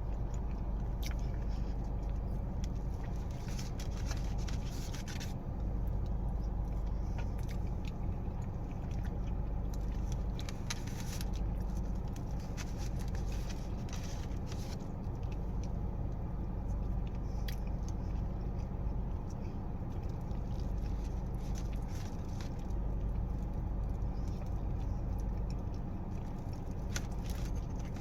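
Scattered soft clicks and scrapes of eating a soft, cream-topped cookie and scooping up the pieces, over a steady low hum.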